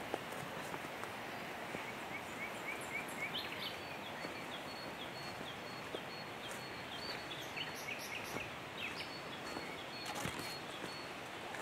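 Forest birds calling over a steady background rush: a quick run of short chirps, then from a few seconds in a high note repeated in an even series with scattered chirps.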